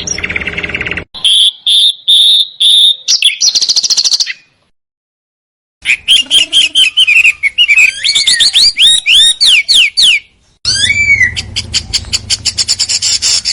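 Songbird song in three bursts, each starting and stopping abruptly: fast rolling trills, sharp sweeping whistles and rapid rattling notes.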